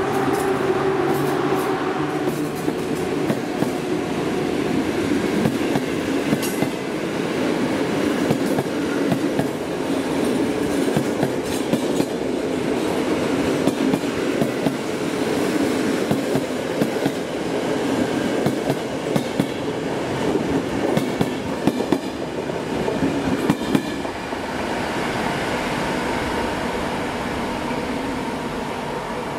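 Passenger coaches of a departing train rolling past at low speed, their wheels clicking over rail joints and points in an uneven rhythm over a steady rumble. A hum from the EP07 electric locomotive fades in the first two seconds as it pulls away, and the sound smooths out and slowly grows quieter near the end as the train draws off.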